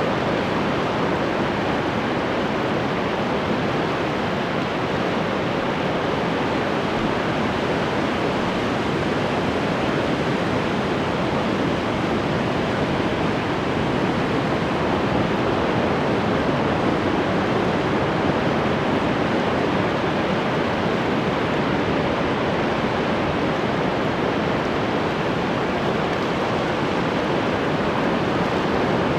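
Ocean surf: a steady, continuous wash of breaking waves, with no single wave crash standing out.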